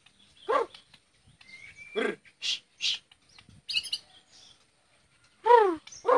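Bornean white-rumped shama (murai batu) singing in separate phrases. Harsh downward-sliding calls come about half a second in, about two seconds in and twice near the end, with short high whistled notes between them.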